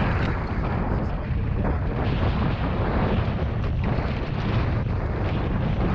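Strong wind buffeting an onboard action-camera microphone on a catamaran under sail, a dense, steady rumble with a few faint knocks.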